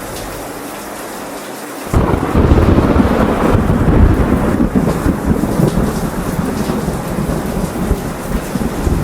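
Steady rain, then about two seconds in a sudden loud thunderclap breaks into a heavy rolling rumble that slowly fades under the rain.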